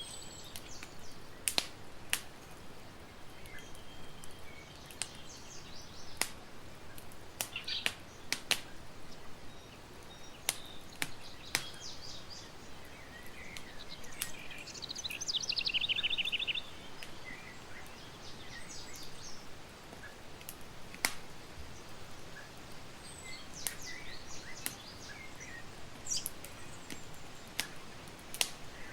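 Campfire crackling with sharp, irregular pops, under birdsong: scattered high chirps and a rapid trill about halfway through.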